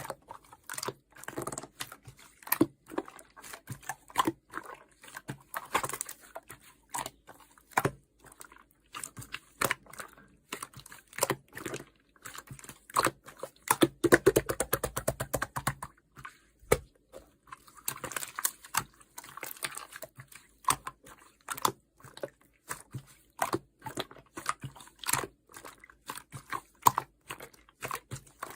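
Yellow clear slime being squished and pressed by hand, making a steady run of sticky clicks and pops, with a louder, denser stretch of squishing about halfway through.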